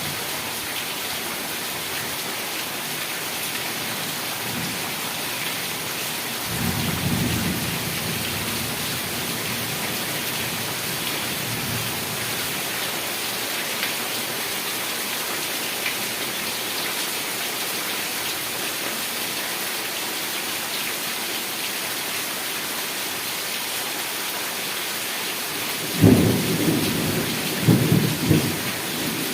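Heavy rain falling steadily, with a low roll of thunder about seven seconds in and a louder, sudden thunderclap near the end that rumbles on for a few seconds.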